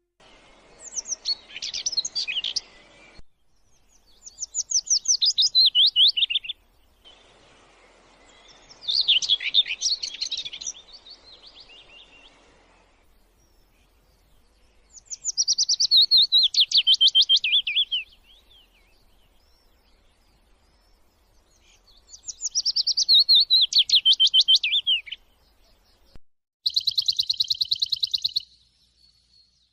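A songbird singing, repeating a phrase of many fast notes that falls in pitch, about six times with pauses of a few seconds between.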